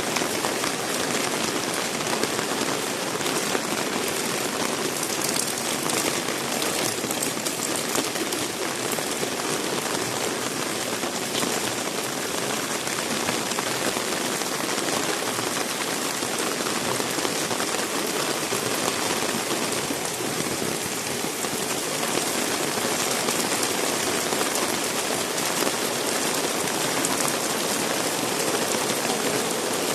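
Heavy rain falling steadily, a continuous dense patter of drops on wet surfaces.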